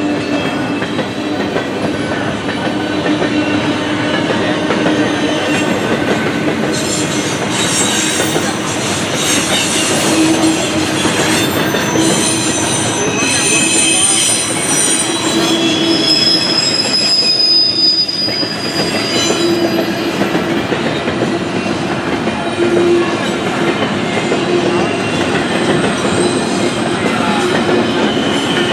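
Freight train of intermodal cars rolling past with steady wheel and rail noise. High-pitched wheel squeal comes and goes through the middle.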